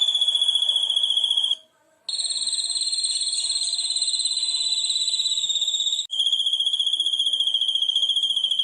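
High, rapidly fluttering trilled call in three long bouts with short breaks between them. Each bout is held on nearly one pitch, the middle one a little higher and slowly falling. It is a bird- or insect-like trill of the kind played as isian (masteran) for competition songbirds to learn.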